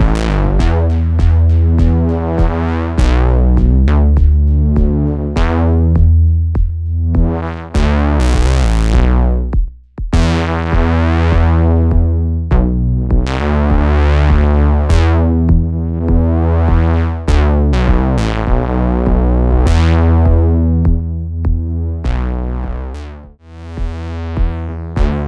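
Eurorack synthesizer sequence running through a Swenigiser Proto VCF/A filter and amplifier module, its input driven hot for a gritty tone. A repeating bass line plays while the filter cutoff sweeps open and closed over and over, the sound dropping out briefly near the middle and again near the end.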